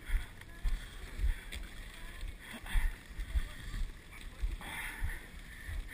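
Dog sled running over snow: a steady hiss of the runners with irregular low thumps of bumps and wind on the microphone.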